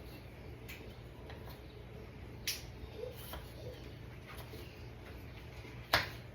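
Kitchen knife slicing vegetables and knocking on a cutting board: a few sharp, irregular knocks, the loudest near the end, over a low steady hum.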